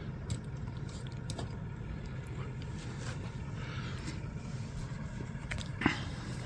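A vehicle engine idling steadily, with a few faint clicks and one sharper knock near the end.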